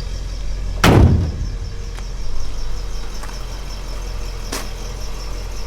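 International Harvester Scout's 266 V8 idling steadily after a cold start. A loud thump comes about a second in, and a lighter click later.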